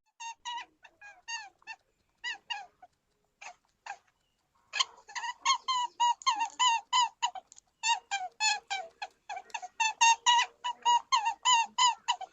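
A small animal giving short, squeaky calls, each wavering in pitch. A few scattered calls at first, then a fast run of about four calls a second from about five seconds in.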